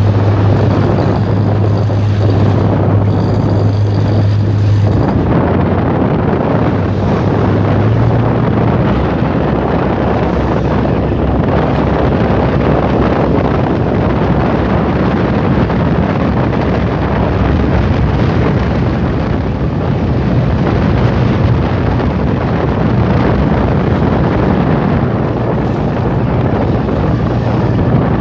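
A fishing boat's engine running steadily underway, a low hum over a rushing noise of wind on the microphone and water.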